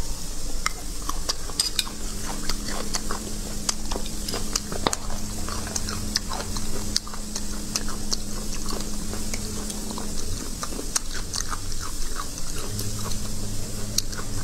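Close-miked chewing of braised beef bone marrow, with frequent small clicks and scrapes of a metal spoon against the bone. A low steady hum runs underneath.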